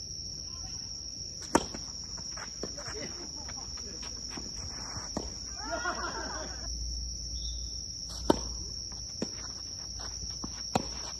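Tennis balls struck by rackets: two sharp loud hits about seven seconds apart, with fainter hits and bounces between. A steady high-pitched insect chirr runs underneath, and a distant voice is heard briefly in the middle.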